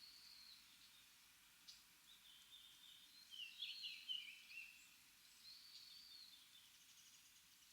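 Wild birds calling faintly: a few thin, high calls, with a short louder run of quick chattering notes about halfway through.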